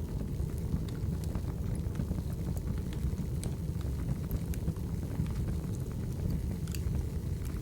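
Wood fire burning in a fireplace: a low, steady rumble of flames with scattered crackles and pops from the burning logs.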